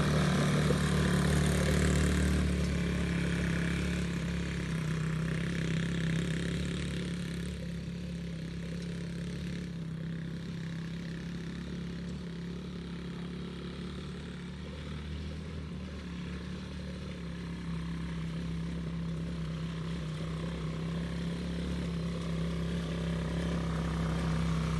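Small engine of a KXD off-road machine running at a steady speed. It grows fainter toward the middle and louder again near the end.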